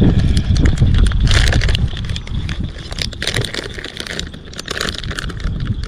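Strong wind buffeting the microphone, a heavy rumble for about the first two seconds that then eases. Close-by clicks and rustling of handling run through it.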